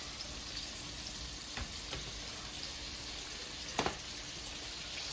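Chicken feet frying in hot oil in a pan, a steady sizzle, with two light knocks about a second and a half in and near four seconds in as the pieces are turned over.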